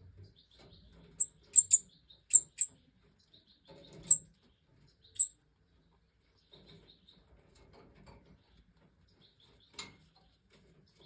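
Goldfinches calling: about seven short, sharp, very high chirps in the first half, one more near the end, over soft, high twittering that comes and goes.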